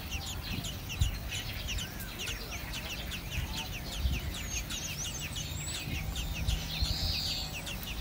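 Birds chirping rapidly: thin, high, downward-slurred chirps, several a second, with a low rumble underneath.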